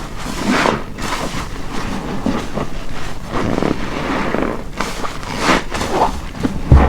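Wet, soapy car wash sponge squeezed and released again and again, squelching and hissing as foamy water is pressed out, with a dull thump near the end.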